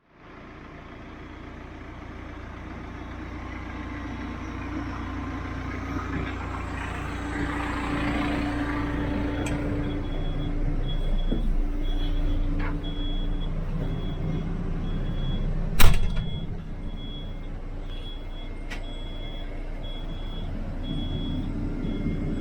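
HIDROMEK 102B backhoe loader's diesel engine running steadily. From about halfway in, a high electronic beep repeats a little over once a second, and a single loud knock comes about two-thirds of the way through.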